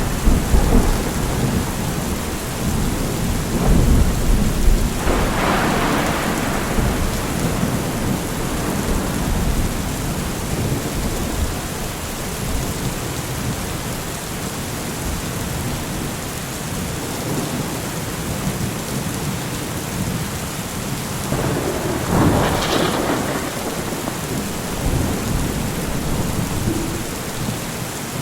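Steady heavy rain with thunder: a rumble fading out early on, another crack and rumble about five seconds in, and a further peal of thunder about twenty-two seconds in.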